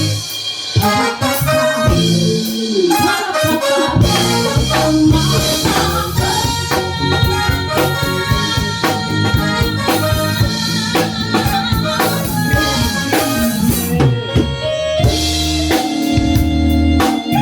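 Live band playing an instrumental passage of a pop song, with a drum kit keeping a steady beat under held melody notes; the low end drops out briefly about fourteen seconds in before the band comes back in.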